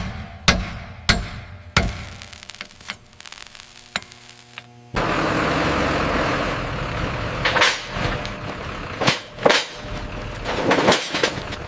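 A few sharp hammer blows in quick succession, then sparser knocks, then about five seconds in a loud steady rough noise from a power tool starts abruptly and runs on with a few louder swells.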